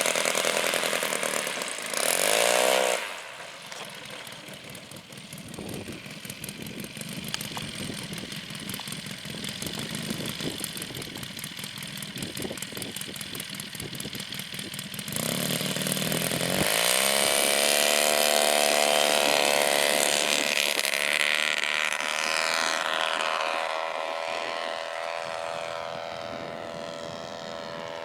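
Homebuilt radial engine of a Pietenpol light aircraft running at low power, then opened up about fifteen seconds in, rising in pitch to full takeoff power. In the last several seconds the pitch falls and the sound slowly fades as the plane moves away.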